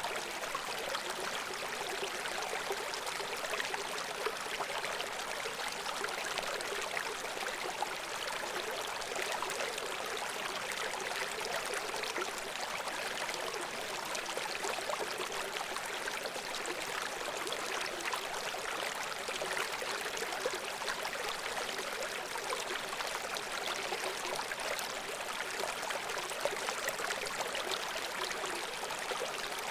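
Babbling brook: shallow water running steadily over stones, with a dense, even rush and fine splashing and gurgling.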